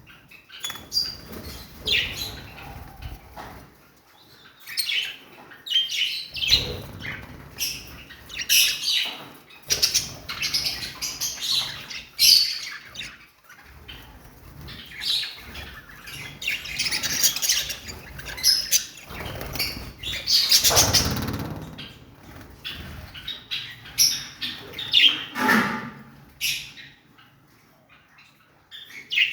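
Pet lovebirds chirping in short, shrill calls that come in irregular bursts, mixed with stretches of rustling noise.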